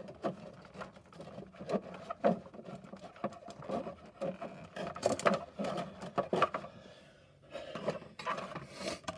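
Cardboard playset pieces being handled and pushed into place: irregular rustling, scraping and light knocks, easing off briefly around the middle-late part.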